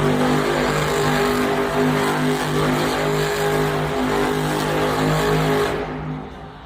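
Monster truck engine held at high revs, its note wavering as it spins through donuts, then cutting back and fading sharply near the end.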